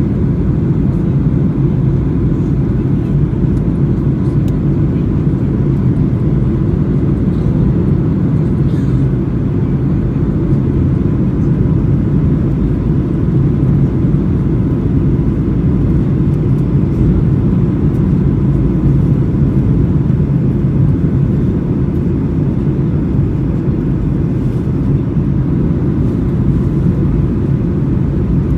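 Boeing 737 heard from inside the passenger cabin on the landing approach: a steady, unbroken rumble of engines and airflow, with a faint steady whine above it.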